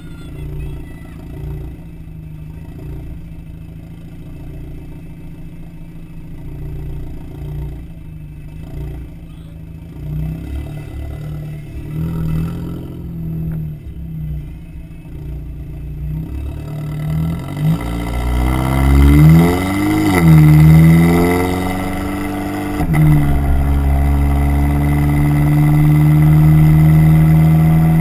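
2008 VW GTI's turbocharged four-cylinder, modified with a K04 turbo, Eurojet downpipe and AWE cat-back exhaust, running low and fairly steady at first. Later it revs up loudly, its pitch climbing and falling. After a sudden break it settles into a steady, louder drone at higher revs.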